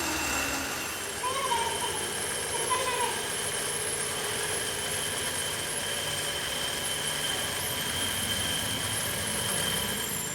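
Steady workshop machinery noise with a thin, even high-pitched whine held over it. Two short voice-like calls come through a second or two in.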